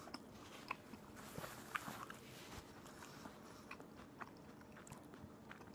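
A person quietly chewing a mouthful of grilled tuna melt sandwich, close to the microphone: faint, scattered mouth clicks and small smacks.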